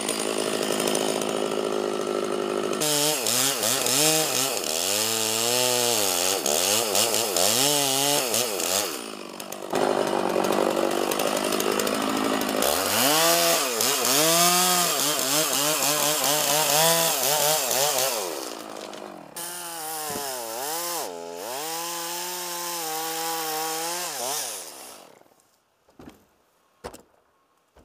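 Chainsaw cutting oak, its engine pitch repeatedly sagging and rising as the chain loads in the wood, over several long passes. The saw dies away near the end, followed by two short knocks.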